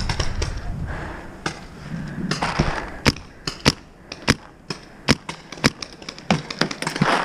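Paintball markers firing: a string of sharp pops at irregular spacing, roughly one or two a second, after a couple of seconds of rustling movement noise that fades away.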